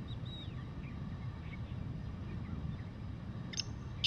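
Steady low background rumble with a few faint, short falling chirps from small birds. Near the end comes a faint brief note, then right at the end the loud call of a black francolin begins.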